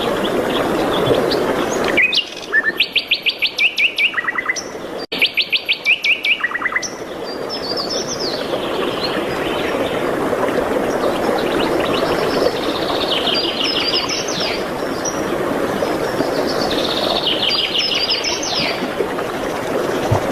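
Birds singing: loud, rapid trills of repeated high notes from about two to seven seconds in, then fainter trills and chirps over a steady rushing background noise.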